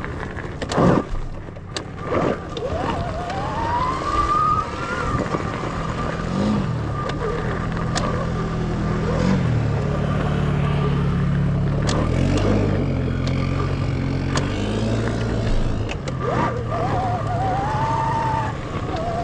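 Revolt electric dirt bike's motor whining under way. The pitch climbs as it accelerates and then holds steady, climbing again near the end, over a steady rumble of wind and tyre noise. There are a few sharp knocks in the first couple of seconds.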